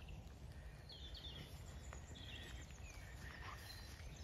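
Quiet outdoor ambience: a few faint, scattered bird chirps over a low steady rumble.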